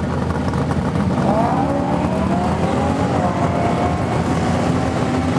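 Chevrolet C5 Corvette's V8 at full throttle, accelerating hard away down a drag strip. The engine note rises over the first couple of seconds, then holds steady.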